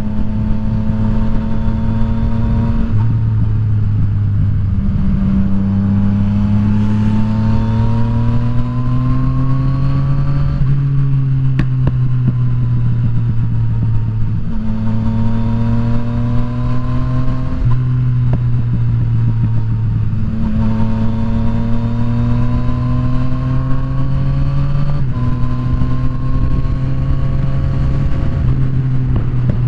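Yamaha FZ-09's inline three-cylinder engine pulling at moderate revs while riding, its pitch climbing and easing off with several gear changes, over steady wind rush.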